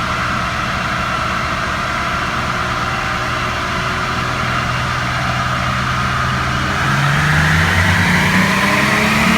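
Truck engine running under load on a chassis dyno during a roll-on power pull: steady at first, then about seven seconds in it gets louder and rises in pitch as the engine accelerates.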